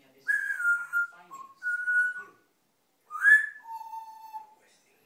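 African grey parrot whistling a string of clear notes: a short falling whistle, a brief lower one and a steady one, then a quick rising whistle followed by a longer, lower held note near the end.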